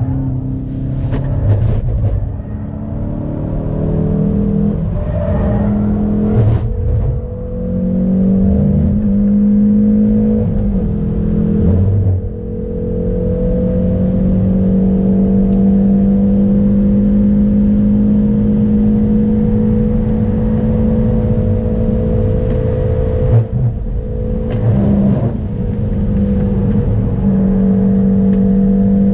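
Hyundai Veloster N's turbocharged four-cylinder engine working hard on a hot lap. It revs through several gear changes and throttle lifts in the first dozen seconds, then holds a long, slowly rising pull at high revs for about ten seconds. Near the end the pitch drops sharply with a few short cracks as it brakes and changes down, then it climbs again.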